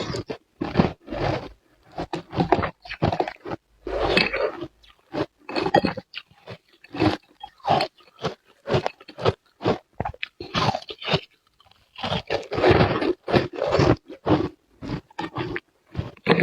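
Close-up crunching of frozen ice being bitten and chewed: an irregular run of sharp, crisp crunches, several a second, with short pauses between bites.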